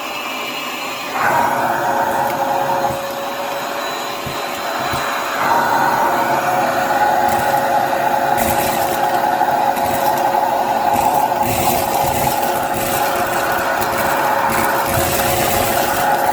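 Hyper Tough vacuum cleaner running with a steady motor whine and airflow rush that gets louder about a second in and again around five seconds in, with scattered short clicks and rattles later on.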